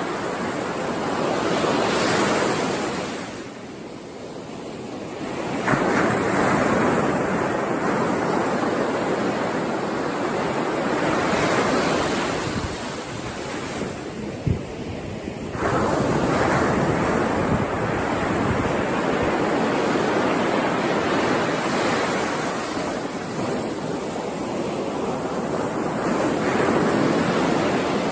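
Ocean waves breaking on a shore, the surf rising and falling in long swells. Breakers come in suddenly twice, about a fifth of the way in and just past halfway, each after a short lull.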